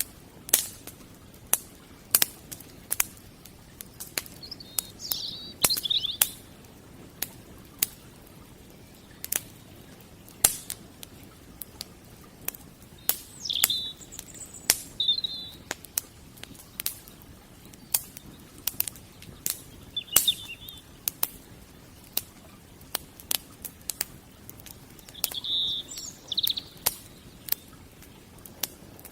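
Wood fire crackling with frequent sharp, irregular pops, and a bird chirping briefly several times in the background.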